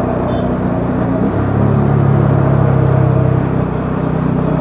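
Bajaj Dominar 400's single-cylinder engine running while riding in traffic; about a second in the engine note shifts down, then it pulls steadily for about two seconds before easing off.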